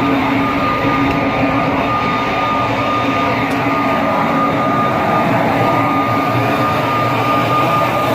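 Engine of an International tandem grain truck running steadily, with a steady high whine over a low drone.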